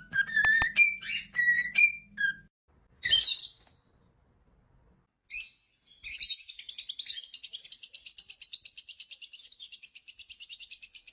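A parrot calling: a run of short whistled chirps, then after a brief pause a long, rapid chatter of evenly pulsed high chirps.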